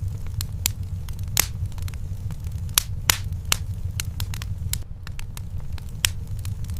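Wood fire in a fireplace crackling, with irregular sharp pops, a few loud ones standing out, over a steady low rumble.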